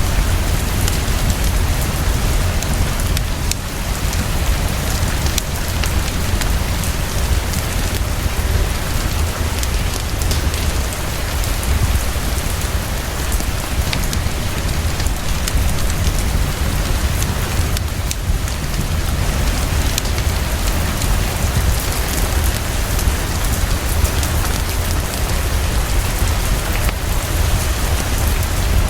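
Heavy, steady rainfall, with a deep steady rumble underneath and scattered small sharp clicks.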